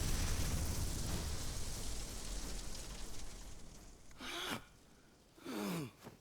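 A rushing noise with a deep rumble that fades away over the first few seconds. Then come two short non-speech voice sounds, each rising and then falling in pitch, like sighs or groans.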